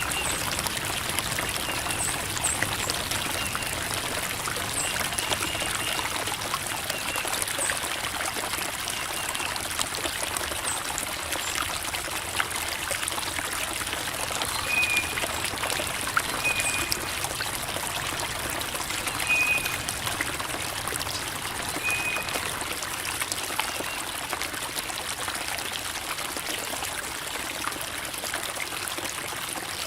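Creek water trickling and babbling over rocks, a steady rush of flowing water. A few short high chirps sound over it in the middle.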